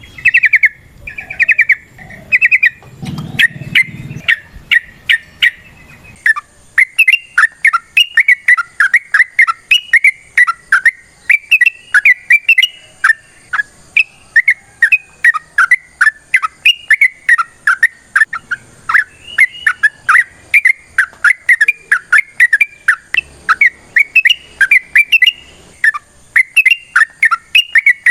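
Yellow-vented bulbul (trucukan) singing a long, fast run of short chirping notes, about three a second, the unbroken 'ropel' song used to lure and prompt other trucukan.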